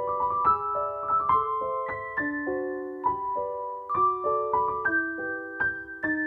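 Background piano music: a gentle melody of sustained notes with chords underneath.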